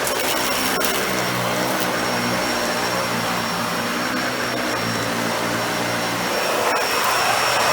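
Dyson Ball Animal 2 upright vacuum running steadily, with a thin high whine over its motor noise. The rush of air swells louder near the end.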